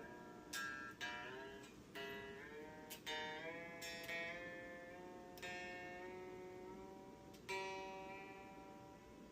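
Electric guitar strings on an Epiphone SG Junior plucked one at a time while being tuned. Single notes ring out every second or two, and several slide upward in pitch as they sound, the way a string does while its tuning peg is turned.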